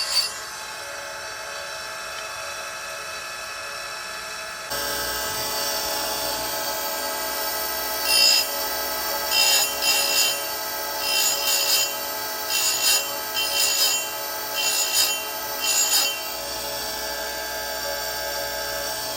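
Oregon 410-120 electric chain grinder running steadily with its CBN wheel, brought down on the chainsaw cutters in about a dozen short grinding passes in quick succession from about 8 seconds in, each a brief sharp grind.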